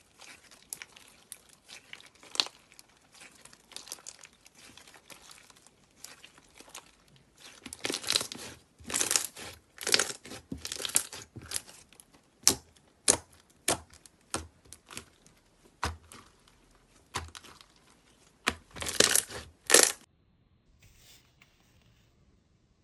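Slime being squished and stretched, crackling with many sharp pops, some louder than the rest; it stops suddenly near the end.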